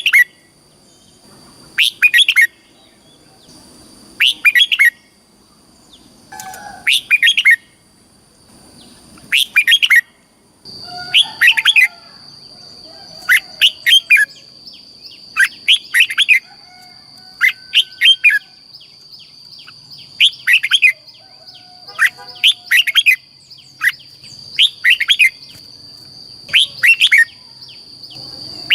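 Red-whiskered bulbul singing short, loud, repeated song phrases about every two seconds. A faint steady high-pitched tone runs underneath and grows louder about ten seconds in.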